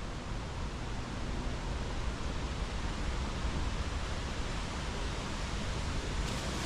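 Wind buffeting the microphone: a steady rushing noise with a choppy low rumble underneath.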